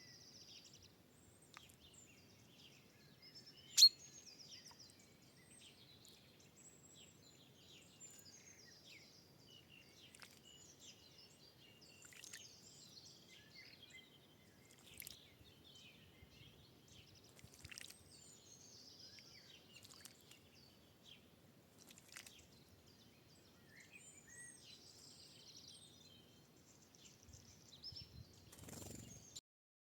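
Faint songbirds chirping and singing in short scattered phrases, with a single sharp click about four seconds in and a short dull bump near the end.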